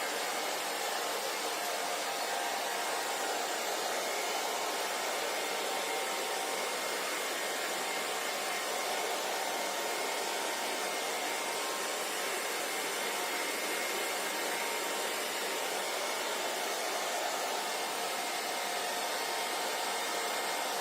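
Hair dryer running steadily, an even rushing whoosh of blown air with a faint motor whine.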